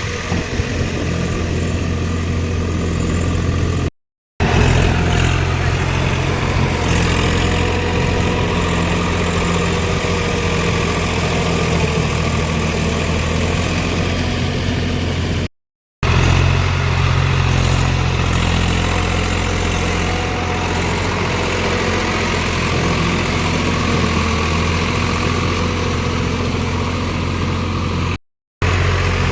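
Tractor diesel engine running steadily at an even pace. The sound cuts out completely for a split second three times.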